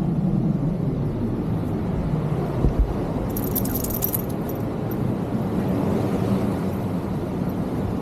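Steady rumble of ocean surf breaking on the beach, with a brief metallic jingle a little after three seconds in.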